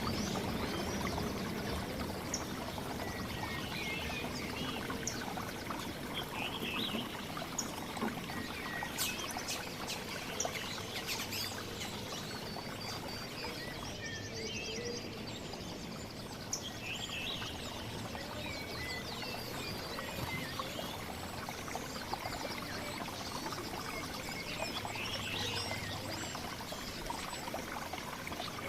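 Small songbirds chirping and calling in a mixed chorus over a steady rush of running water, with a few sharp high chips near the middle.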